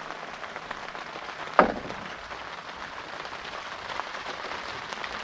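Heavy rain pattering steadily on a rain fly, with one short, loud clatter about a second and a half in.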